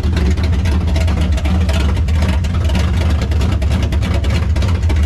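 Custom hot rod's V8 engine running steadily while driving, a loud, even low rumble.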